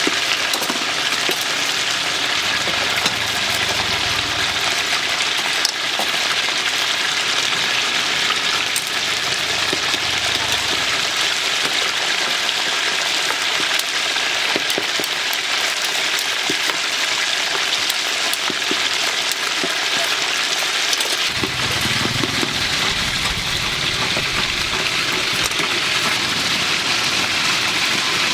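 Food deep-frying in hot oil: a steady sizzle with scattered small crackles. A low rumble joins about three quarters of the way through.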